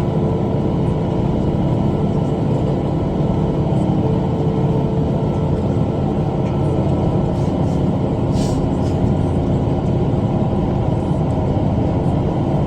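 Tractor engine running steadily under load, driving a rotary cutter (bush hog) while mowing.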